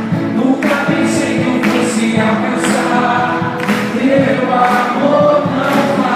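Gospel worship song: a group of voices singing together over band accompaniment, with a percussion hit about once a second.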